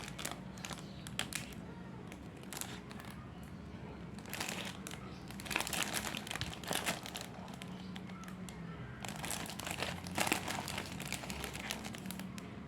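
Plastic snack wrappers and packaging crinkling and rustling in irregular bursts, louder around six and again around ten seconds in.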